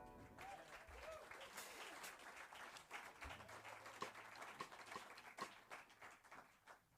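Faint, sparse applause from a small audience after a song, the tail of the band's last chord fading out at the start.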